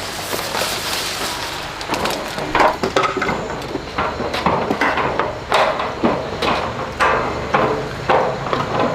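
A steady hiss, then repeated hammer strikes starting about two seconds in, roughly two a second.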